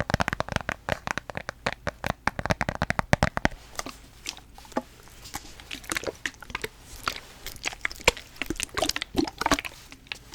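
A ball being handled and squeezed close to the microphone: a fast run of crackling clicks for about the first three and a half seconds, then sparser clicks and a few soft squelches.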